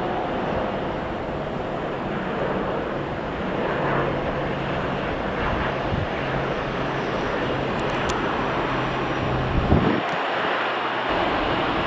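Airliner engines running: a steady noisy drone with a low hum through the middle, and a short louder low rumble near the end.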